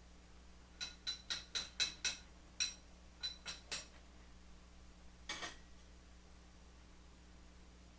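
Light metallic taps, about ten quick strikes in three seconds, each with a brief ring, then one rougher clink a little over five seconds in.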